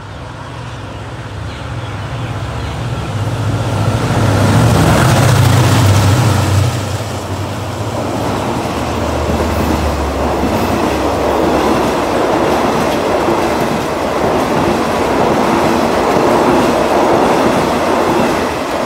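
GEA-class diesel-electric locomotive of the State Railway of Thailand passing close by with its engine running, growing louder to its loudest about five seconds in, its low engine note dropping as it goes by. A long string of passenger coaches follows, rolling past with steady clattering wheels on the rails.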